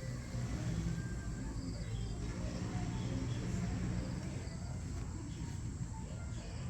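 Outdoor ambience: a steady high-pitched insect drone, likely crickets, over a low rumble, with scattered faint short chirps.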